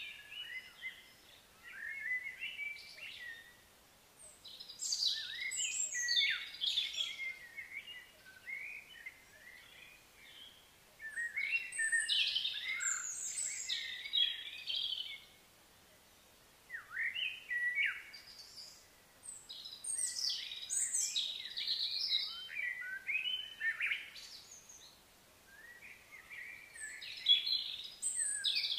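Songbirds singing: bouts of high chirping phrases come every few seconds, each lasting one to three seconds, with short quiet gaps between.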